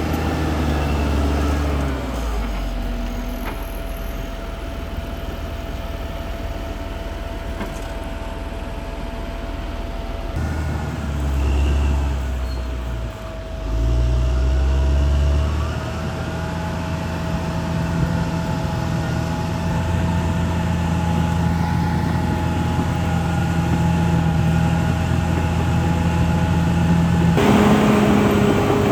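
Diesel engine of a Caterpillar D6R XL crawler bulldozer working, its note shifting in steps as the load changes: a change about two seconds in, an unsettled stretch from about eleven to fifteen seconds, and another shift near the end.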